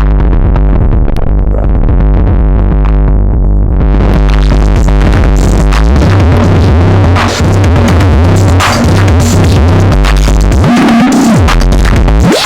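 Modular synthesizer patch played through Erica Synths Black series filters, a bass-heavy electronic sequence. The top end is muffled at first and opens up with a rising sweep about three and a half seconds in. Rhythmic percussive hits are heard from then on.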